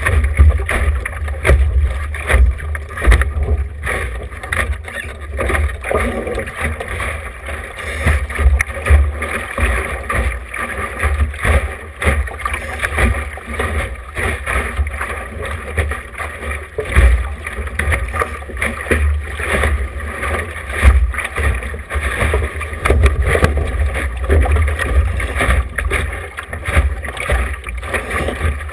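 Wind buffeting a GoPro's microphone aboard a sailboat under way: a gusting low rumble over a steady rush of wind and water.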